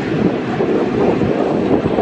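Airliner engine noise at close range, a loud dense rumble with wind buffeting the microphone.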